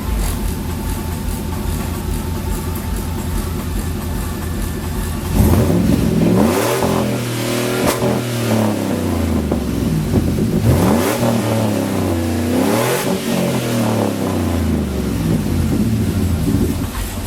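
2012 GMC Denali's 6.2-litre V8 running through a Borla XR-1 Sportsman muffler: a steady idle, then about five seconds in the throttle is blipped several times, the exhaust note rising and falling with each rev before dropping back toward idle.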